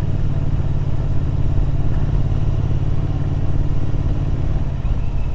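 Royal Enfield Interceptor 650's parallel-twin engine running steadily while riding, picked up by the rider's helmet microphone.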